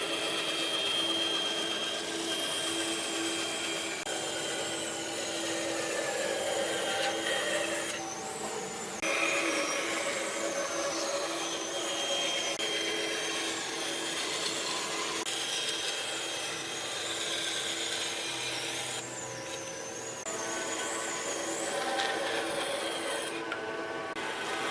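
A power tool working wood: a steady hum under a high whine that wavers in pitch, with rasping. The sound changes abruptly a few times.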